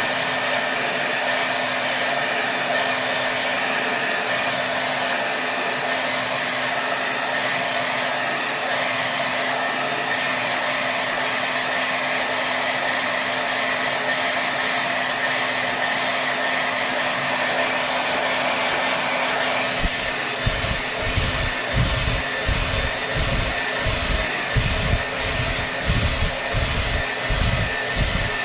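Hair dryer blowing steadily at full power, a dense rush of air with a faint steady hum. About two-thirds of the way through, a low, uneven throbbing joins in underneath.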